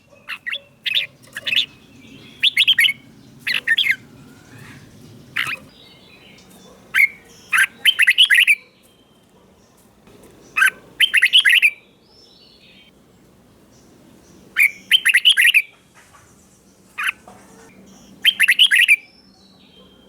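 Red-whiskered bulbul singing short, bright, quick-noted phrases, one burst every two to four seconds.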